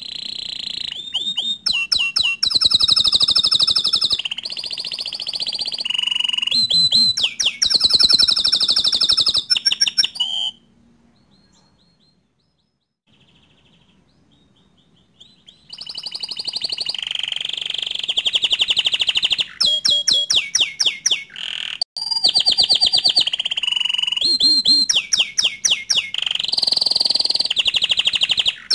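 Domestic canary singing long bouts of rapid trills and rolls. There is a pause of about five seconds near the middle, with only a few faint notes, before the song starts up again.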